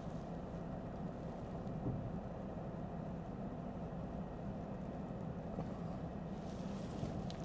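Steady low hum inside the cabin of a Lexus ES 350 F Sport, its V6 engine idling while the car waits at a traffic light.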